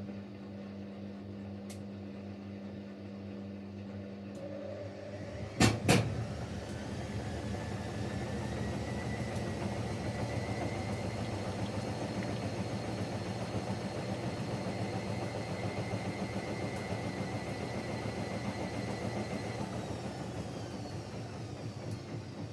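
Siemens Siwamat Plus 574 washing machine running an intermediate spin during its rinse cycle. After a steady hum and two sharp clicks about six seconds in, the motor whine rises as the drum speeds up, holds steady for about ten seconds, then begins to fall near the end as the spin winds down.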